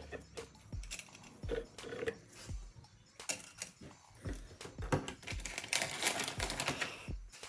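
Rapid light metallic clicks and clinks of transmission clutch plates and parts being handled and stacked, with a denser clatter about three-quarters of the way through. Background music with a deep kick-drum beat runs underneath.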